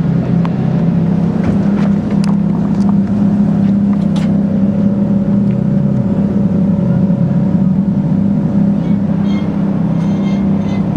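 Ferrari engine idling steadily, a low even rumble without revs.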